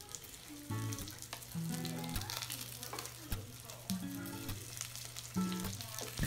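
Fried chicken wings sizzling in a frying pan of hot oil, butter and garlic as a wooden spatula stirs and turns them, with scattered clicks of the spatula against the pan. Soft background music plays underneath.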